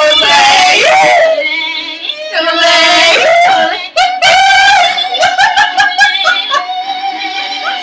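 Music with yodeled singing: a lay-o-style yodel refrain leaping quickly between high and low notes, with a run of rapid short notes about five seconds in.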